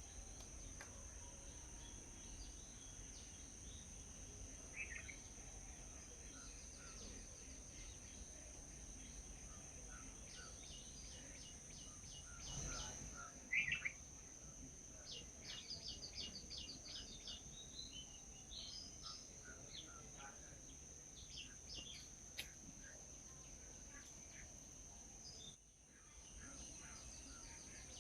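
Small birds chirping in short, scattered calls, with quick runs of high notes through the middle and one louder call about halfway. A faint, steady, high-pitched hum lies underneath.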